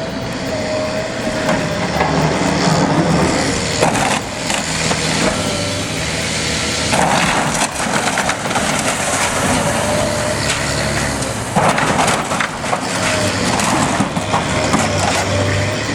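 Heavy demolition machinery crushing and tearing apart material, with repeated cracking and crunching over a steady diesel engine hum and a wavering whine.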